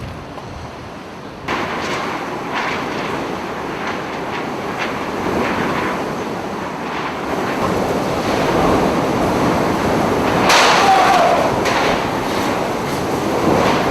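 Hurricane wind and storm-surge surf, a continuous loud rush that jumps louder about a second and a half in and swells in irregular surges, the strongest about ten and a half seconds in.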